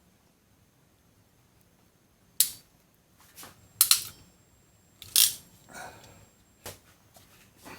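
Ring terminal being crimped onto an earth wire with a hand crimping tool: four or five sharp clicks and snaps, irregularly spaced, including a quick double click.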